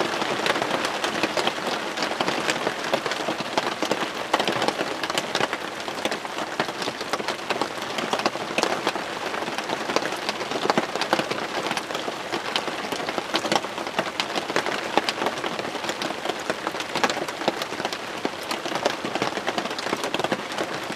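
Steady rain falling on a hunting ground blind: an even hiss with many sharp hits of close drops throughout.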